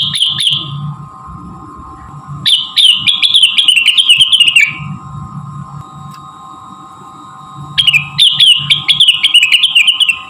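Blue-winged leafbird (cucak wilis, 'rengganis') song: three loud bursts of fast, choppy, high-pitched chattering, each a few seconds long with short pauses between. A steady hum and a few fixed tones run underneath.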